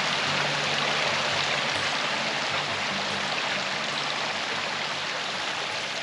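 Stream water running steadily over rocks, a continuous rushing that eases slightly toward the end.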